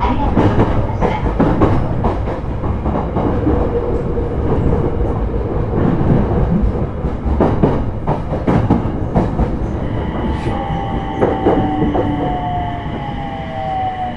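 Running noise inside a JR East E721 series electric train's motor car, with wheels clicking over rail joints. From about ten seconds in, the VVVF inverter's whine comes in as a pair of tones gliding down in pitch while the running noise eases, as the train slows.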